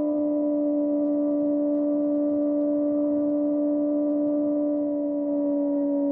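Kawasaki ZX-4RR inline-four running through a Trick Star Ikazuchi slip-on exhaust at a steady high engine speed, a constant drone whose pitch sags only slightly over the few seconds.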